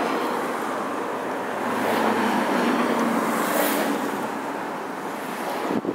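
Road noise of a moving car, a steady rush of tyres and wind that swells twice as traffic passes, with a brief gap near the end.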